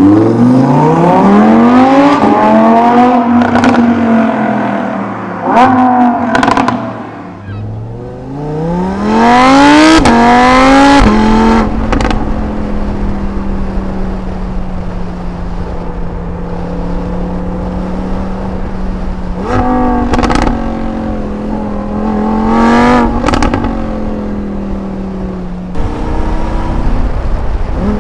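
Audi R8 V10 Plus's 5.2-litre V10 through a Quicksilver stainless sport exhaust, revved in rising and falling sweeps. It then holds a steady engine speed for several seconds, broken by quick throttle blips.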